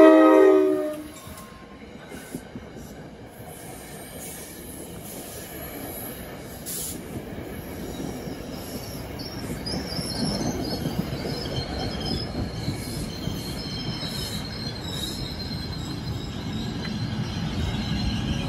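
A train horn's chord cuts off about a second in. Then an NJ Transit train approaches, its rumble growing louder, with high-pitched wheel squeal from about halfway.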